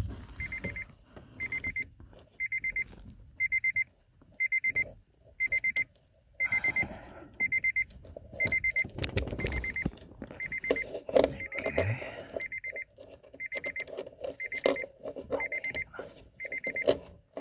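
A car's warning chime beeping about once a second, each beep a short, rapid high-pitched trill, from a Honda Odyssey sitting with its door open. Between the beeps come light clicks and rustles of parts being handled under the steering column.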